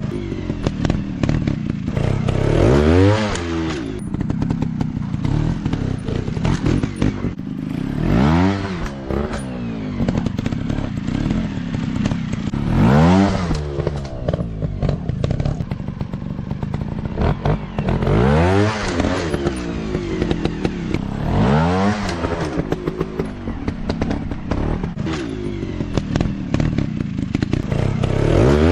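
Dirt bike engines running hard, revving up sharply and dropping back six times, a few seconds apart, as the bikes accelerate over rough terrain.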